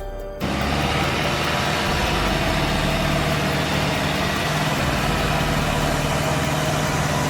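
Tractor engine running steadily, starting abruptly about half a second in.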